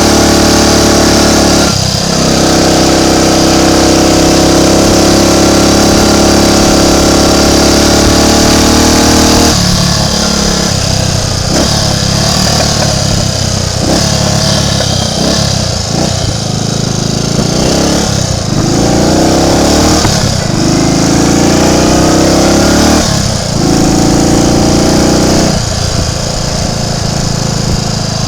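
Triumph Tiger Cub's single-cylinder four-stroke engine running under way. It pulls steadily at first with a short break about two seconds in, then goes choppy from about a third of the way through, with repeated dropouts and several rising sweeps in pitch as it is opened up again. The bike is suffering an intermittent misfire.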